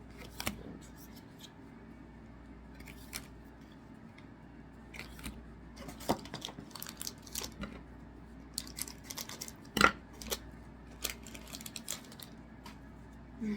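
Trading cards being handled and stacked on a table: a scattered run of light clicks and taps, with one sharper tap near ten seconds in.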